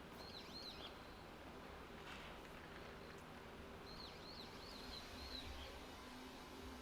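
Small birds chirping faintly in two short runs of quick down-curving notes, one near the start and one about four seconds in, over a low, steady background hum.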